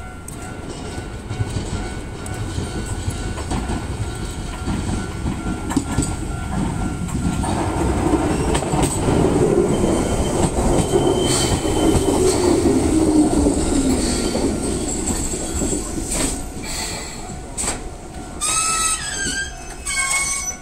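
Enshu Railway four-car electric train, sets 2005 and 1004 coupled, pulling into a station: a rumble builds as it approaches, with wheel clicks over the rail joints. Midway a whine slides down in pitch as the train slows, and near the end the brakes squeal as it comes to a stop.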